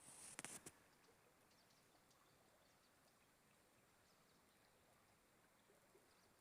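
Near silence: faint outdoor ambience with a few faint, distant bird chirps. A brief burst of hiss with a few sharp clicks comes right at the start.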